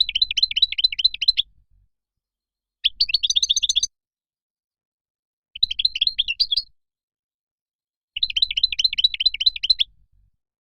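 European goldfinch song: four bursts of rapid twittering phrases, each a second or so long, with dead silence cut in between.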